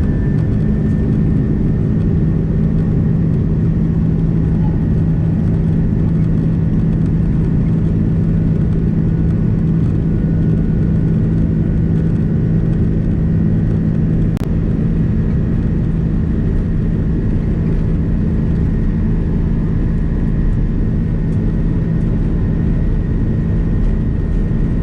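Airbus A330-300 jet engines running steadily: a loud low drone with a steady high whine that has just finished spooling up. A single sharp click about halfway through.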